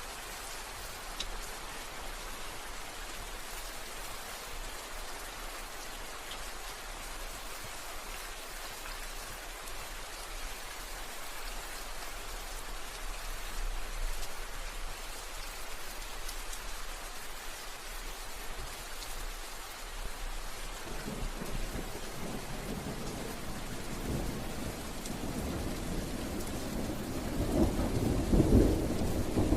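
Steady rain falling with an even hiss. About two-thirds of the way through, a deep roll of thunder builds up and is loudest near the end.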